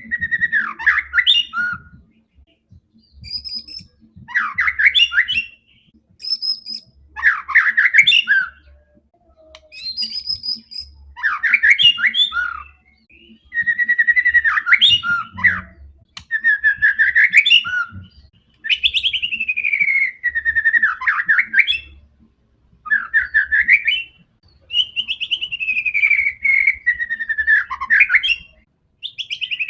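White-rumped shama (murai batu) singing loudly in a long run of varied phrases, each a second or two long with short pauses between, mixing falling whistled notes and rapid trills.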